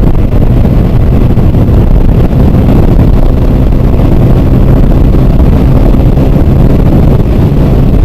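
Hero Super Splendor BS6's 125 cc single-cylinder engine running steadily at high speed, close to 90 km/h on a top-speed run, with wind rushing over the microphone.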